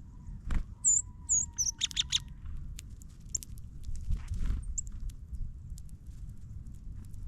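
Small birds at a ground feeder chirping: a few short, high chirps followed about two seconds in by a quick run of harsher calls. Light ticks and a couple of soft thumps are heard between them.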